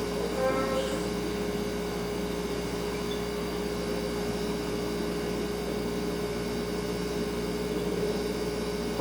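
Refrigerator running with a steady hum, a low even tone over a soft background hiss. A brief higher-pitched sound rises over it about half a second in.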